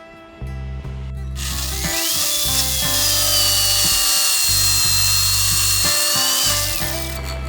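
Electric drill motor whining up to speed, running steadily for about five seconds, then winding down, over background music.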